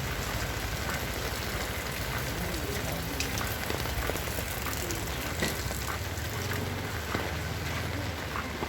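Heavy rain falling, a steady hiss with many separate drops ticking on nearby surfaces.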